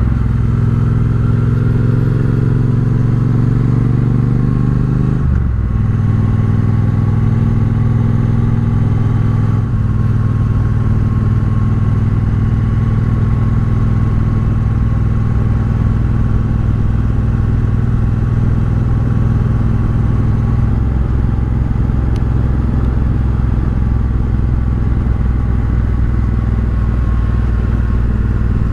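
Triumph Bobber's parallel-twin engine through a Vance & Hines exhaust while riding, heard from the rider's helmet. The engine note rises for about five seconds, drops sharply at a gear change, then holds a steady cruising note.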